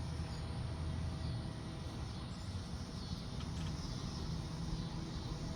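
Faint, scattered high chirps of hummingbirds over a steady low rumble.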